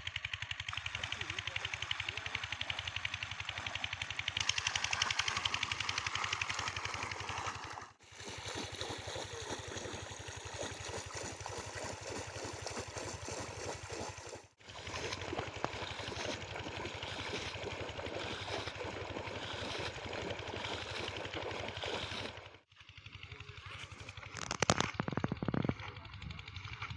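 Old Kirloskar single-cylinder diesel pump engine running with a steady rapid thumping beat. A few louder knocks come through near the end.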